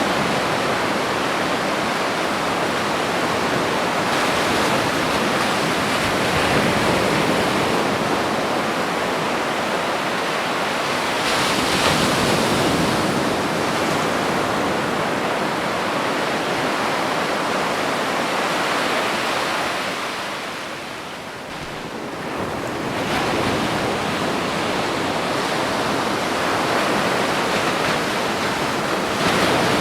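Ocean surf on a beach: a continuous wash of breaking waves that swells about eleven seconds in and eases briefly around twenty-one seconds before building again.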